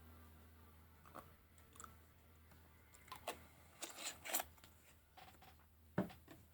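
Faint, irregular crunches and clicks at close range, with a cluster about three to four and a half seconds in and a sharper knock about six seconds in.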